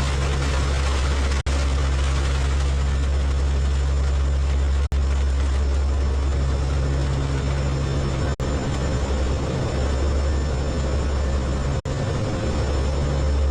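Steady, loud drone of aircraft engines heard inside the cabin, a deep hum with a hiss above it. Near-silent gaps break it briefly about every three and a half seconds.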